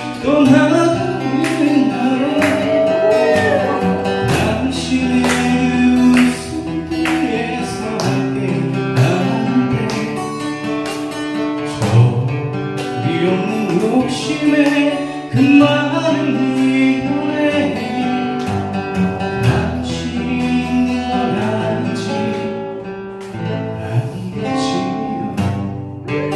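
Acoustic guitars strummed in a steady rhythm, with a voice singing a melody over them.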